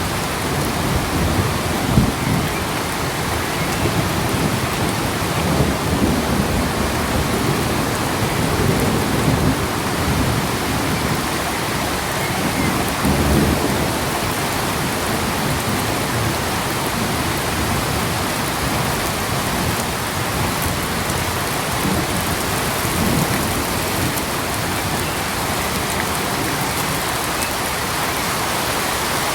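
Steady rain falling, an even hiss, with low rumbles swelling up now and then.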